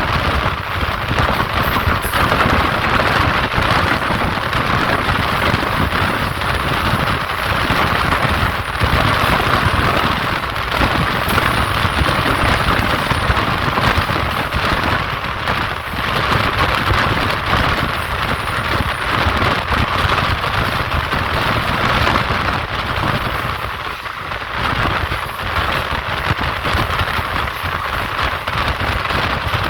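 Running noise of a moving passenger train heard from on board: a steady, loud rush of wheels on rails and passing air.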